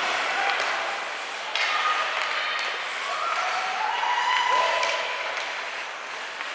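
Hockey spectators clapping and shouting, with a long held yell about four seconds in.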